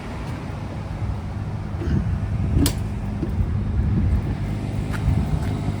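Onboard generator of a Chevrolet C5500 command truck running steadily with a low hum. A few knocks and one sharp click come about two to two and a half seconds in, as the door is opened on the way out.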